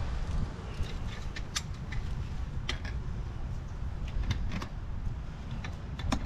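Scattered light metallic clicks and clinks, as of tools or fittings being handled, over a steady low rumble.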